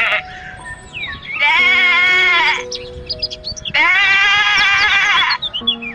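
Two long, wavering bleats from a goat-type farm animal, one after the other, over background music, with short bird chirps between them.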